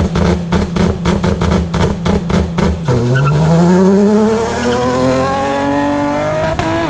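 Nissan 370Z's V6 exhaust revved hard and held high, crackling with sharp pops about five times a second. About three seconds in the revs drop, then climb steadily again and fall away near the end.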